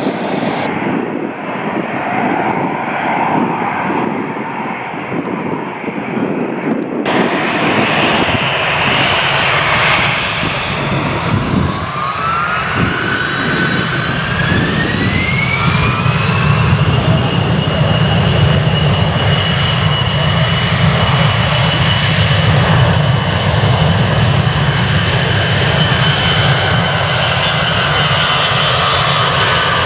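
Jet airliner's engines spooling up for a take-off roll: a loud engine noise with a whine that climbs over several seconds, then holds at take-off thrust. The sound changes abruptly about seven seconds in.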